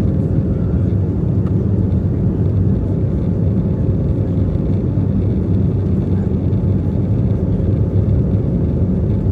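Airbus A320neo's Pratt & Whitney PW1100G geared turbofan engines running, a steady low rumble with a faint steady hum above it.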